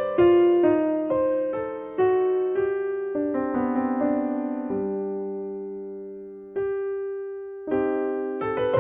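Background music: a slow, gentle piano melody of struck notes and chords, each ringing out and fading, with a longer sustained chord about two thirds of the way through.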